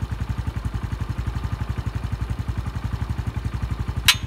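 Honda Pop 110i single-cylinder engine idling with an even putter, and near the end one sharp metallic snap, like iron striking. The snap comes about a minute after a cold start, and the owner takes it for something outside the engine rather than an internal fault.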